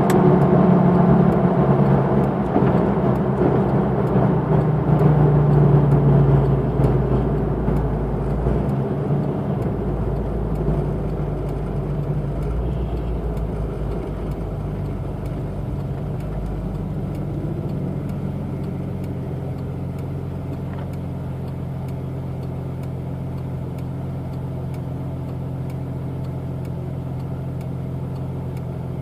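1992 Jeep Cherokee's 4.0-litre inline-six running steadily through a 2.5-inch exhaust with a Thrush Turbo muffler, a low, even exhaust drone. It is louder for the first several seconds, then eases down and holds steady.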